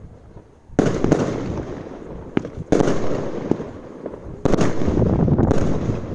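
Consumer fireworks exploding: three loud bangs about two seconds apart, each trailing off into crackling, with a few sharper pops near the end.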